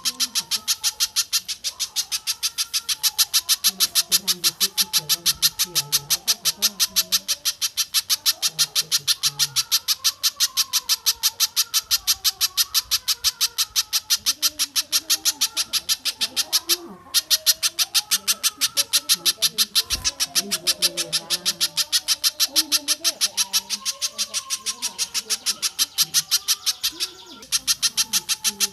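Spiderhunter (pijantung) calling a long, unbroken string of sharp high chips, evenly repeated about five times a second, with two short breaks. Softer, wavering lower bird calls sound underneath.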